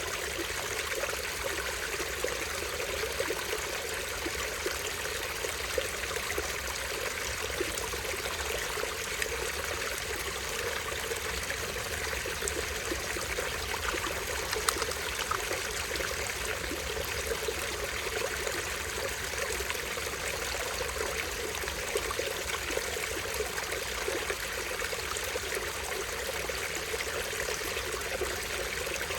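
Small stream with a tiny waterfall, water trickling and splashing in a steady, unbroken rush.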